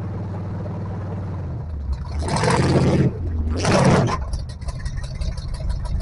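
Off-road 4x4's engine running steadily, then two loud bursts of rushing noise about two and three and a half seconds in, followed by a fast, even ticking.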